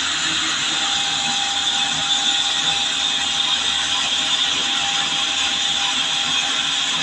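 Stationary diesel engine running steadily, a loud even hiss-like noise with a faint steady whine.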